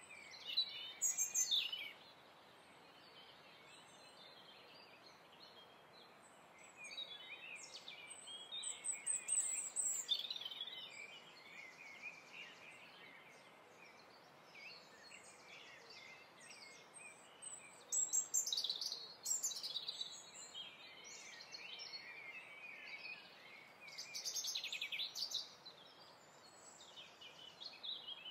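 Birds chirping and trilling in clusters of quick high notes with gaps between, over a faint steady hiss.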